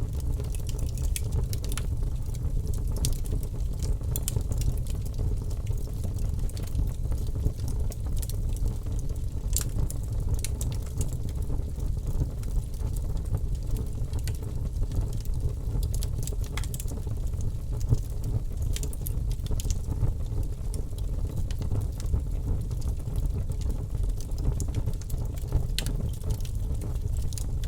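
Wood fire burning in an open fireplace: a steady low rumble of the flames with frequent small crackles and pops.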